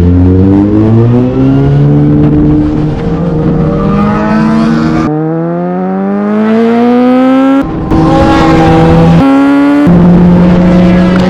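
Inline-four sport motorcycle engine accelerating hard, its pitch climbing steadily up through the rev range several times over, with abrupt jumps where short clips are cut together.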